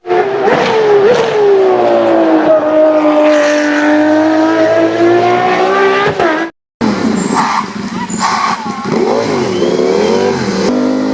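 Race-car engine sound, its pitch dipping and then climbing again over several seconds, cut off abruptly about six and a half seconds in. It is followed by wavering, warbling engine-like tones.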